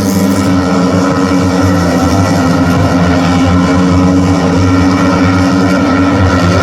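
MotoGP race motorcycle engines running hard at high revs, with an even, sustained tone.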